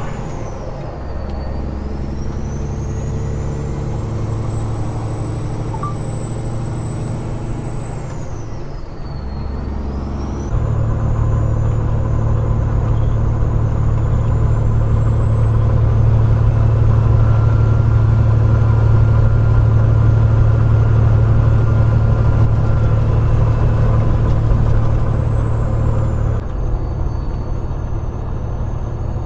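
Peterbilt 389 glider's diesel engine pulling on the road, its level stepping up about ten seconds in and easing back near the end, with a thin high whistle that dips and rises in pitch.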